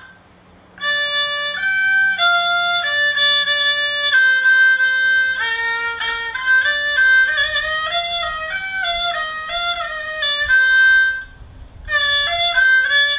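Thai saw, a two-string bowed fiddle, playing the main melody of a Thai classical tune in held notes that step up and down. It breaks off briefly at the start and again shortly before the end.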